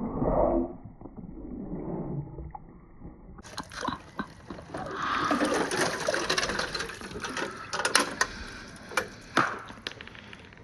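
Glass marbles rolling and clattering down a water-filled marble run of PVC pipe and rain gutters, with water running and many sharp clicks of marbles knocking together and against the plastic. It sounds muffled for the first three seconds, then brighter, with a few louder knocks near the end.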